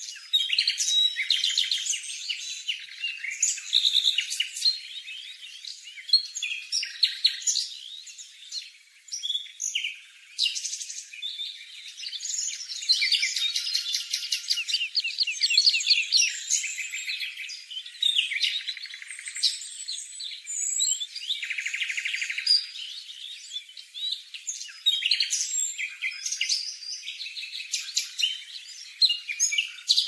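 Small birds chirping and twittering almost without pause, in quick high chirps and rapid trills.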